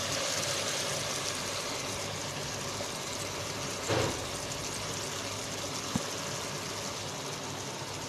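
Chicken and vegetables sizzling in a pan with water just added, over a steady hum. About four seconds in comes a short squelch as chilli sauce is squeezed from a bottle, and a small click near six seconds.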